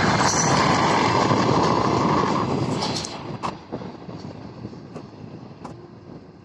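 Freight train wagons rolling past with a loud, even rolling noise that fades after about two and a half seconds, leaving a few sharp, separate wheel clacks on the rails as the train moves away.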